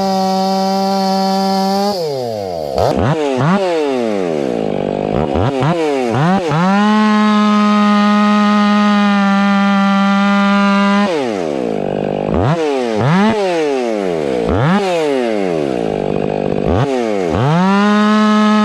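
Ported Stihl 500i chainsaw running wide open at a steady high pitch. Twice it drops off the throttle, its pitch falling and climbing back in several quick revs, before it settles at full throttle again.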